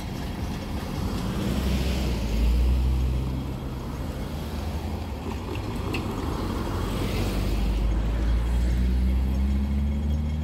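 Hong Kong Light Rail Phase 5 two-car train running along the track with a low rumble that swells and eases, and a low motor tone that rises slightly near the end as it gathers speed.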